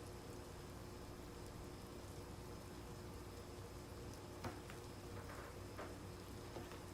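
Faint, steady hiss of rain and white noise, with a few light clicks or taps from about four and a half seconds in.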